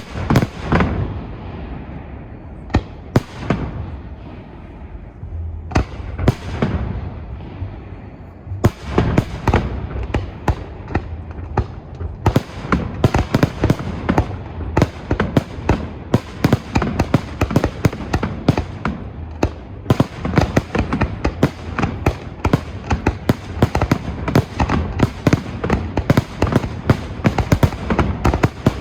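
Fireworks display: a few scattered bangs, each trailing off into a rumble, then from about nine seconds in a dense, rapid barrage of bangs and crackles that keeps up without a break.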